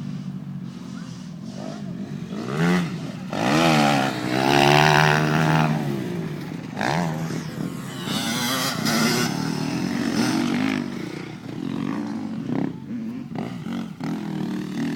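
Motocross bike engine revving, its pitch rising and falling, loudest about three to six seconds in.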